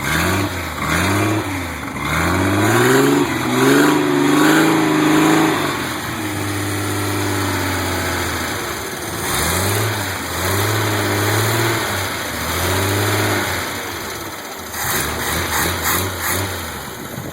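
AMC 258 straight-six with a Weber 32/36 carburetor and a ceramic-coated header, freshly cold-started and being revved over and over: quick throttle blips that rise and fall, a couple of longer stretches held at higher revs, then settling back toward idle. It runs cleanly, the sound of a healthy engine.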